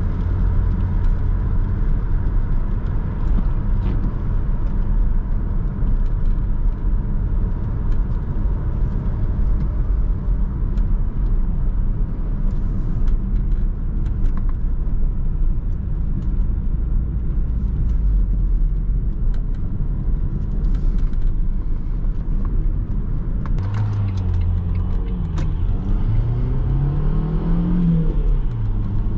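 Renault Laguna II's 1.8-litre 16-valve four-cylinder petrol engine, heard from inside the cabin: steady cruising with road and tyre rumble, then from about three-quarters of the way in, hard acceleration with the engine pitch rising, dropping briefly at a gear change and rising again.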